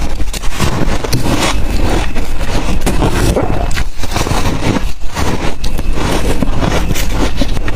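Ice dusted with matcha and milk powder being bitten and chewed close to the microphone: loud, continuous, irregular crunching with a heavy low rumble underneath.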